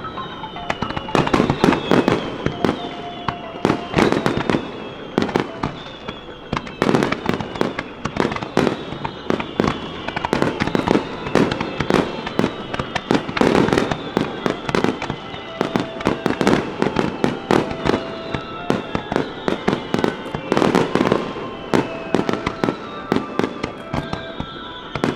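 Fireworks finale barrage: a rapid, unbroken string of shell bursts and crackling reports, several bangs a second, overlaid with high whistles that glide down in pitch.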